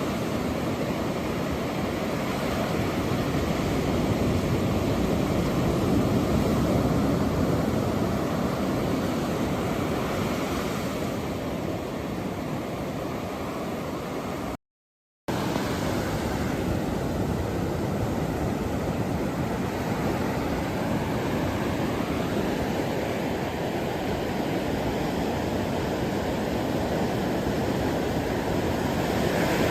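Ocean surf: a continuous wash of waves with slow swells and ebbs, cutting out completely for about half a second midway.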